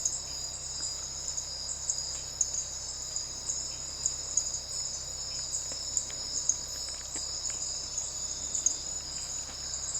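Nighttime rainforest insect chorus: a steady, high-pitched shrill in two overlapping pitches. Scattered sharp clicks sound over it.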